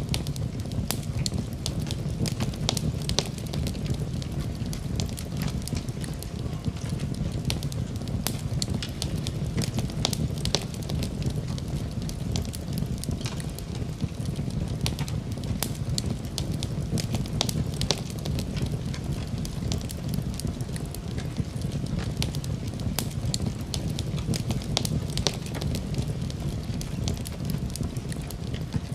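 Fire in a fireplace crackling, with frequent sharp pops over a steady low rush of the flames.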